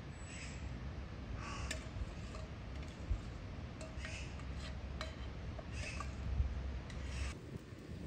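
Birds calling outdoors: short, harsh calls repeated about once a second, over a steady low rumble.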